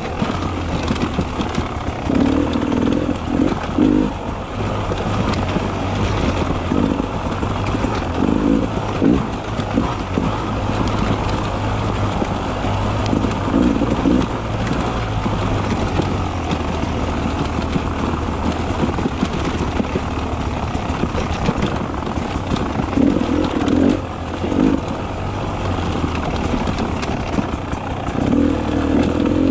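Beta 300 RR two-stroke enduro motorcycle engine running under way, with the throttle opened up in repeated surges every few seconds.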